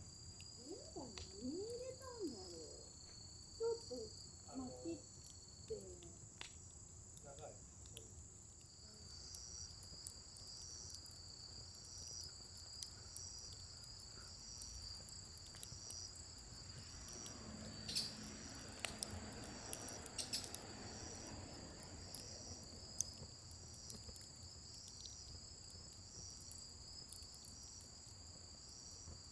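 A steady, high chorus of crickets chirping in even pulses, with a few sharp crackles from the burning wood fire about two-thirds of the way through.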